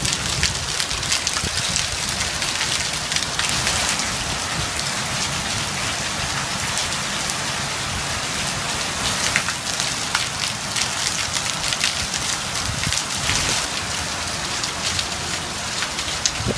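Heavy rain pouring down steadily, with many sharp ticks of drops striking close by.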